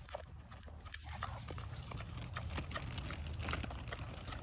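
An animal chewing and crunching toast: irregular quick crunching clicks, over a steady low rumble.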